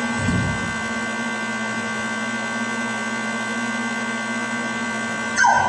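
Steady electrical hum and hiss on the recording, with a low thump just after the start and a short falling sound near the end.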